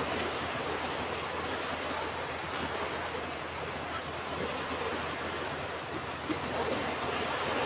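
Ocean waves washing onto a beach: a steady surf noise.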